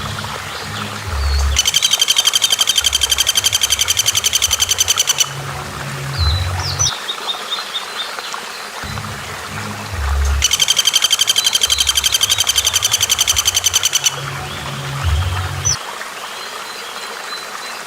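Recorded songbird calls over background music: twice, a long, very rapid rattling trill of evenly spaced high notes lasts a few seconds, with short high chirps between, over a repeating low bass pattern.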